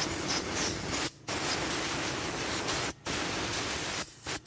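Air blower blasting water out of a motorcycle's cracks and crevices during drying, a loud steady rush of air that cuts off sharply for a moment about a second in, again near three seconds, and twice near the end.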